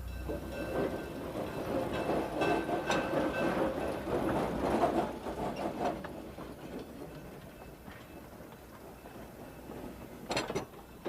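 Narrow-gauge train rolling along the track, its wheels clattering over the rails. The clatter fades away after about six seconds, and a few sharp knocks come near the end.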